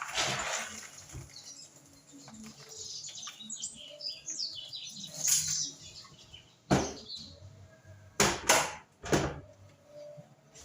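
Kitchen clatter from cooking preparation: light rattling and scraping, then four sharp knocks in the second half, the loudest a pair close together about eight seconds in.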